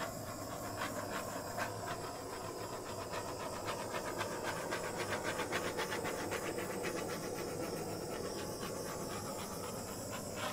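Handheld torch flame burning with a steady hiss and a fine rapid flutter.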